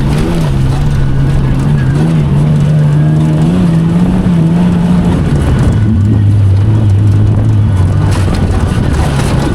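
Off-road race vehicle's engine running loudly at a steady speed, its pitch wavering slightly, then settling to a lower steady note about five and a half seconds in.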